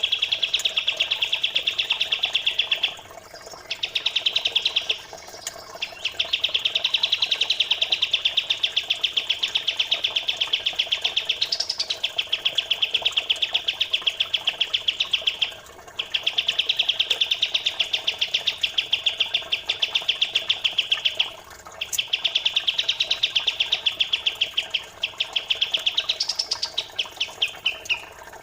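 Recorded songbird chatter played as a masteran training track of pied triller and Eurasian tree sparrow song: long runs of rapid, tightly packed high notes, each run a few seconds long, separated by short breaks.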